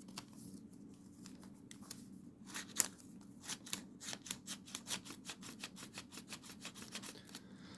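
Sheet of origami paper being handled: a run of quick crisp ticks and rustles, several a second, starting about two and a half seconds in, over a faint steady hum.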